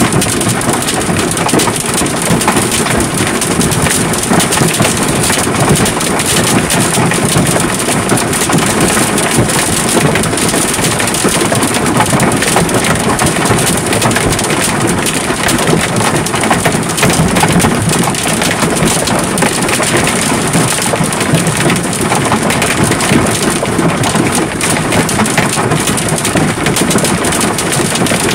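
A heavy hailstorm with rain, pelting down in a dense, steady clatter of countless small impacts that never lets up.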